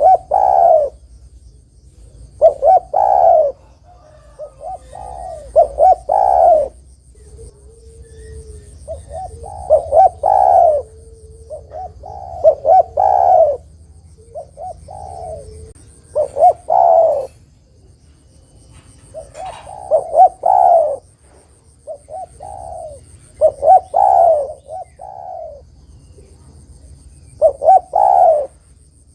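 Spotted dove (tekukur) cooing in full song: its multi-note coo phrase repeated over and over, a phrase every three seconds or so. A faint steady high whine comes and goes behind it.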